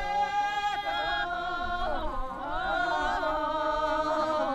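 Background music: a singing voice holding long notes, moving to a new pitch every second or so with slight bends between them.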